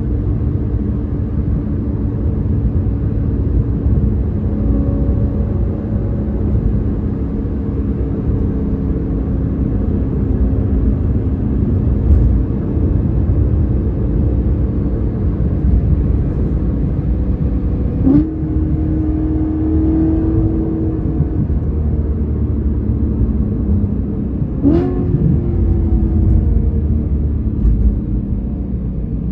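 BMW E92 M3's V8 engine running through a Valvetronics valved exhaust while driving: a steady low drone. Twice in the second half the engine pitch jumps up abruptly with a sharp click, like a quick rev change on a shift.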